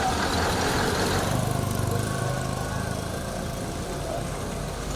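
A motor vehicle's engine running steadily, louder for the first couple of seconds and then easing off.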